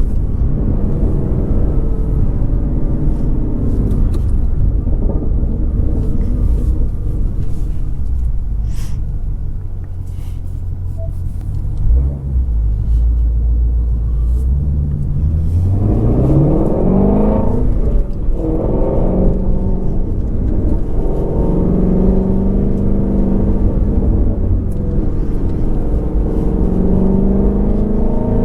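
The 2019 Shelby GT350R's 5.2-litre flat-plane-crank V8 running under way, a low rumble at first with a few faint crackles partway through. About fifteen seconds in it revs up in a rising pull, then keeps running with its pitch stepping up and down.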